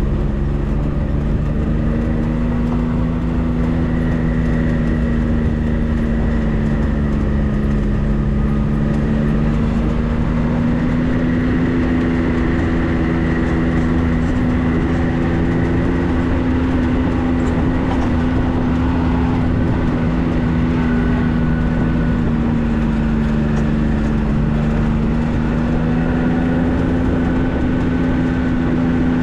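Vehicle engine running steadily under way, with road rumble; its pitch drifts slowly up and down.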